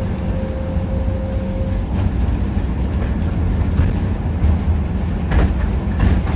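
Tram running along the track, heard from inside the car: a steady low rumble, with a thin tone that fades out in the first two seconds and a couple of knocks from the wheels near the end.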